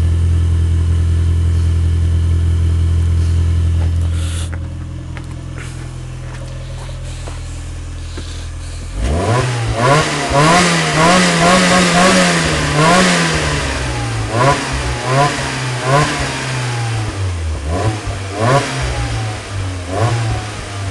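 Rover Metro four-cylinder engine running with no rear silencer, its exhaust open at the side. It holds a steady note, drops back to a quieter idle about four seconds in, then from about nine seconds in is revved again and again, each rev rising and falling.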